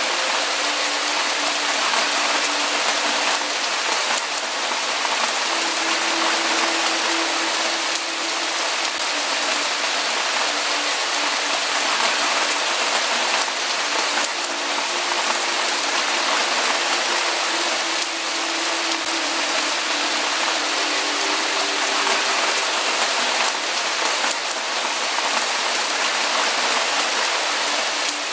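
Steady, even hiss of rain falling, with faint low held tones coming and going beneath it.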